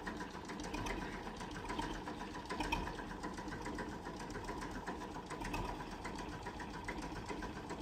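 An engine running steadily at moderate distance, with a fast, even ticking over a low hum.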